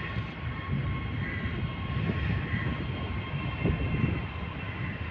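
Steady aircraft whine at an airport apron: thin, high, steady tones over a low rumble.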